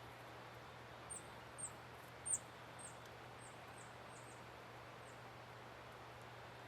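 A small bird at a feeder giving a series of about nine short, high, down-slurred chip notes about half a second apart, the third the loudest and the later ones fading.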